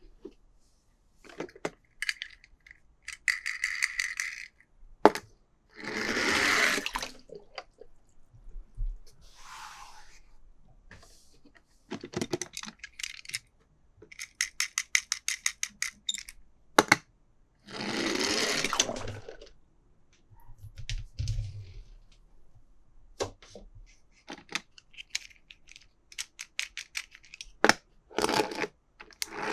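Toy cars and their plastic packaging being handled: scattered clicks and rattles, two runs of rapid clicking, and a few longer rustling bursts like plastic packaging being crinkled or torn.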